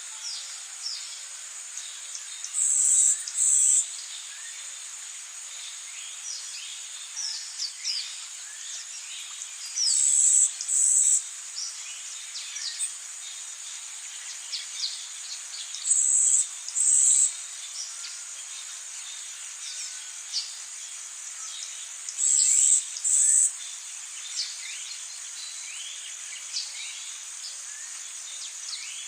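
Rainforest ambience: a steady high insect trill, with a louder two-part insect buzz repeating about every six seconds, and many short, high, falling chirps scattered throughout.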